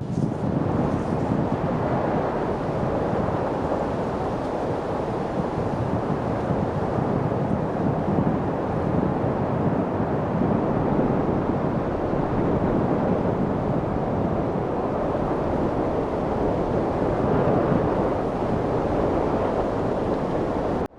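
Steady wind noise, a low, even rush that swells and eases slowly.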